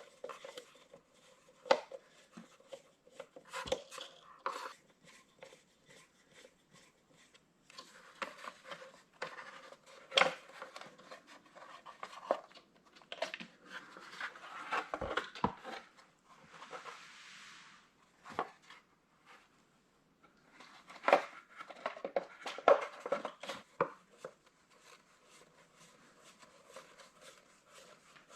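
Hand work on a tractor tail light assembly: scattered clicks, taps and scraping of small parts and tools being fitted, with a brief rustle a little past halfway.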